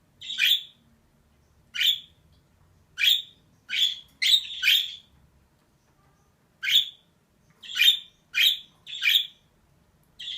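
Female budgerigar calling in short chirps, about ten of them at uneven intervals, with a pause of a second or two midway.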